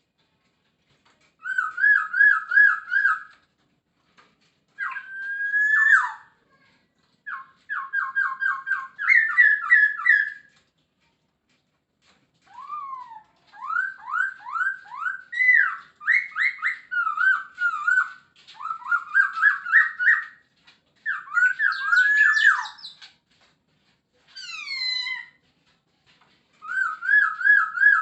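A Poksay Hongkong laughingthrush singing hard in short whistled phrases of rapidly repeated notes with brief pauses between them. Some notes sweep down in pitch, and the song is full of mimicked phrases.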